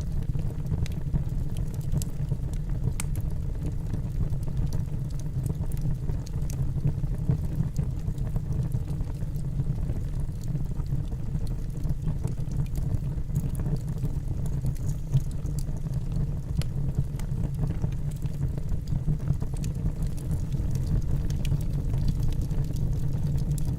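Wood fire burning in a fireplace: a steady low rumble of the flames with scattered small crackles and pops from the logs.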